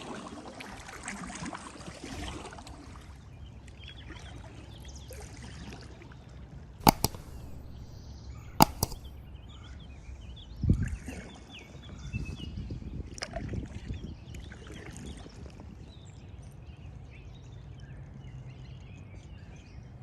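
Kayak paddling on a river: water trickling and dripping off the paddle blades. Midway come two sharp knocks about a second and a half apart, then a dull thump, typical of the paddle striking the kayak.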